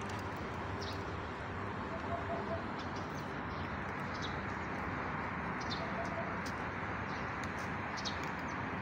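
Steady outdoor background noise with short bird calls scattered through it, a brief high chirp every second or so.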